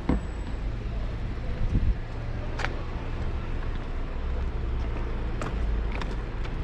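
Low rumbling street and traffic noise heard from a moving bicycle, with a few sharp clicks and knocks.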